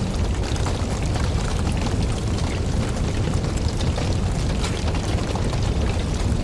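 Wood fire of burning logs: a steady low roar of flames with frequent small crackles and pops.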